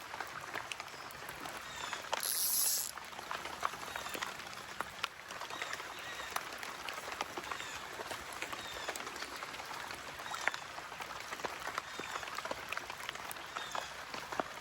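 Rain outdoors: scattered raindrops ticking and pattering over a steady background hiss, with a brief louder hiss lasting about a second, some two seconds in.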